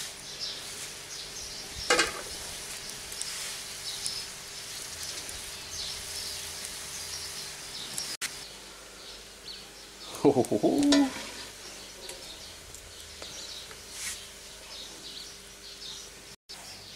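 Duck, bell peppers and onions sizzling steadily in a cast iron skillet over a wood fire as the pan juices reduce. A sharp click comes about two seconds in, and a brief, louder voice-like sound about ten seconds in.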